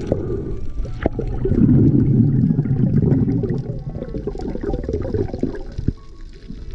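Water gurgling and sloshing, a dull churning sound with most of its weight low, swelling to its loudest about two seconds in and easing off near the end, with a few sharp clicks.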